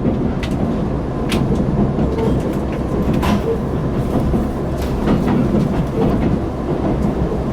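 KiHa 261 series diesel railcar heard from inside the passenger cabin while running under power: a steady low engine rumble with wheel-on-rail running noise and a few sharp clicks.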